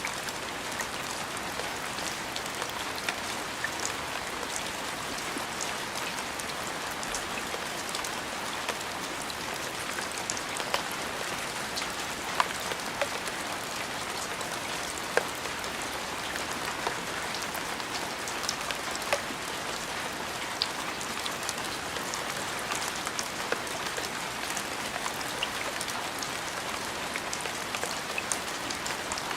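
Steady rain falling, an even hiss with many scattered sharp drip ticks.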